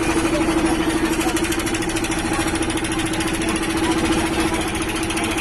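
Engine of a river boat running steadily, with a rapid, even chugging and a steady hum.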